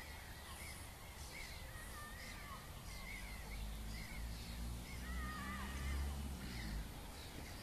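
Birds calling in a quick run of short, wavering chirps, over a low rumble that grows louder in the middle and fades again.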